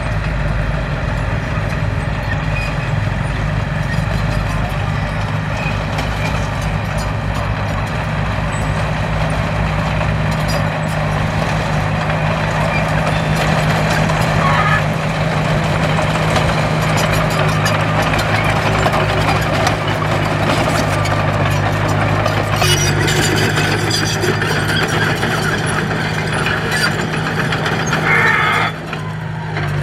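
Komatsu D21P bulldozer's diesel engine running steadily under work. It grows louder about three-quarters of the way through and drops off briefly near the end.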